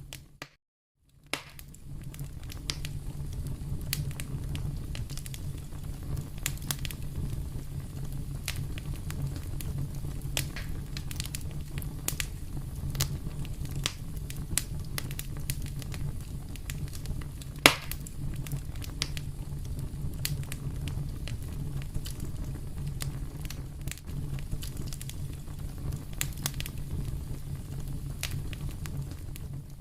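Wood fire in a fireplace crackling: many small sharp pops over a steady low rumble, with one much louder pop about two-thirds of the way through. The sound drops out to silence for about a second just after the start.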